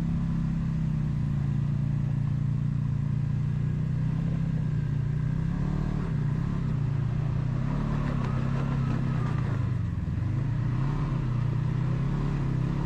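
Off-road vehicle engine running at a steady low speed, its pitch wavering up and down briefly between about six and ten seconds in.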